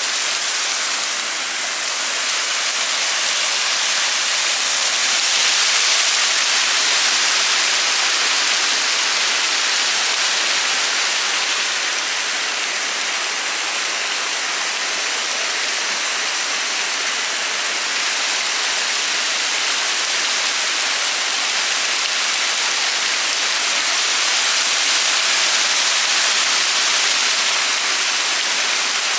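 Steady rushing water, a loud, even hiss that sits high and has almost no low end. There is no rhythm, tone or voice in it.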